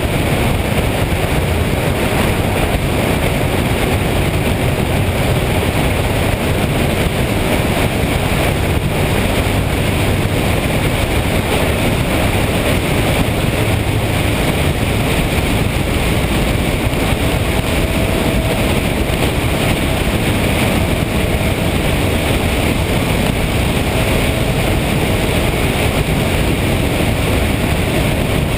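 Motorcycle riding steadily on the road, its engine and tyre noise under a steady rush of wind on the microphone.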